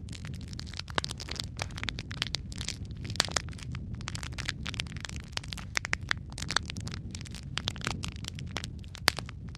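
Wood fire crackling: dense, irregular pops and snaps, several a second, over a low steady rumble of the burning.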